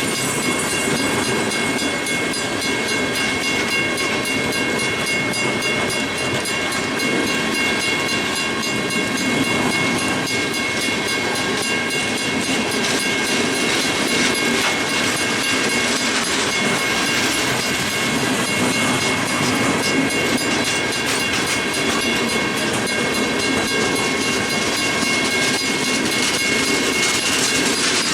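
Freight train cars rolling past with a steady clickety-clack of wheels over rail joints and a steady high-pitched ringing from the wheels on the rails.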